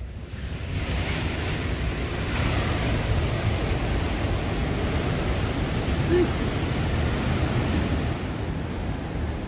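Ocean surf from a big swell, waves breaking and washing in as a steady rush that swells up in the first second, with wind rumbling on the microphone.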